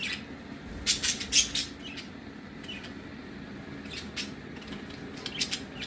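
Pet budgerigars giving scattered short, high-pitched chirps in small clusters, over a faint steady hum.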